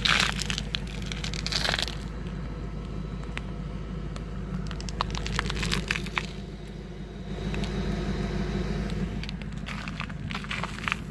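Audi S6 C5's 4.2-litre V8 running at a steady low hum, with clusters of crunching, crackling clicks over it at the start, around five to six seconds in and near the end.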